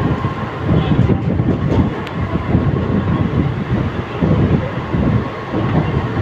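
Mumbai suburban EMU local train running on the track: a dense, uneven low rumble of wheels and carriage, with a faint steady whine above it.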